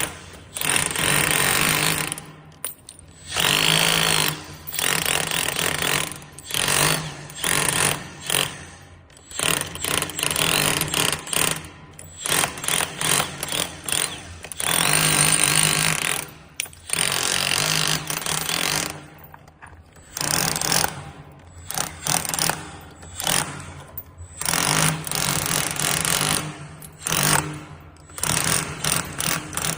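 Power chipping hammer driving a 40 mm scaling chisel to chip wall tiles off, running in repeated bursts of one to two seconds with short pauses between them.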